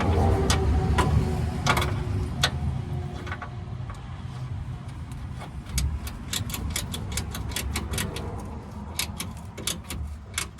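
Socket ratchet clicking while a bolt is turned. A few scattered clicks come first, then from about halfway through a quick, even run of clicks, several a second. A steady low rumble sits underneath.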